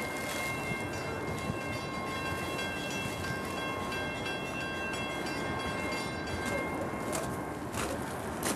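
A train running at a distance: a steady rumble with a thin high whine on several steady notes. The whine stops about seven seconds in, and a couple of sharp clicks follow near the end.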